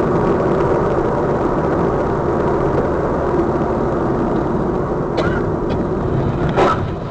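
Steady, loud noise of a moving car, engine hum and road noise together, with a short knock about six and a half seconds in.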